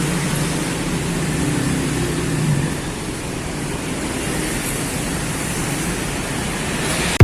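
Steady vehicle and road noise while driving in slow traffic: an engine running with a constant rush of road and wind noise, unchanging throughout.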